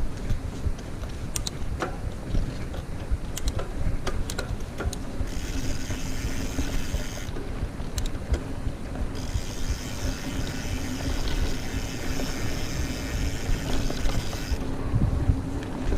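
Mountain bike ridden fast along a dirt trail: a steady rumble of tyres and frame with wind on the microphone, and small clicks and rattles in the first few seconds. A high hissing buzz comes in about five seconds in, stops for a couple of seconds, then returns until near the end.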